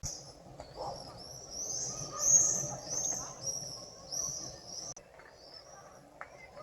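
Wild birds calling: one bird repeats a high chirping call about twice a second, then stops about five seconds in, with fainter bird calls under it and outdoor background.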